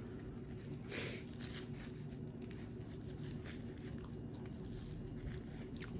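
Faint chewing and eating sounds, with one short crackle about a second in, over a steady low background hum.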